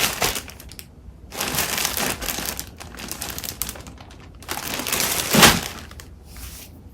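Paper crafting supplies being shuffled and handled: crinkling and rustling in three main bouts, the loudest a little after five seconds in.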